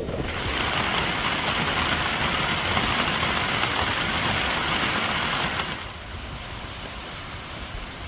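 Heavy rain falling, a steady hiss that drops away suddenly about six seconds in, leaving a quieter low rumble.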